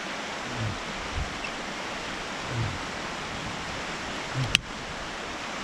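Steady rushing noise, with a sharp click about four and a half seconds in.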